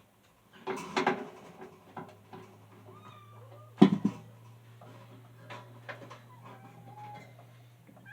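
Knocks and clatter from handling a box fan's parts, the loudest about four seconds in, with a cat meowing briefly a few times in between. A low steady hum comes in about two seconds in.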